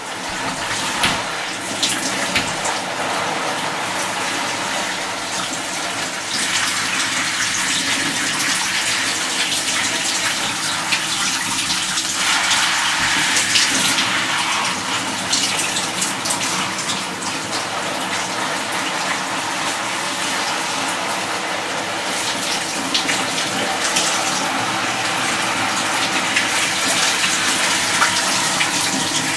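Water running steadily, a continuous splashing gush.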